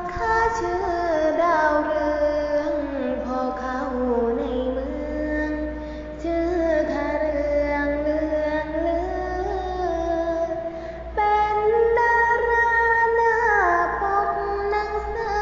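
A female voice singing a Thai song over backing music, holding long notes that slide slowly up and down; the singing gets louder about eleven seconds in.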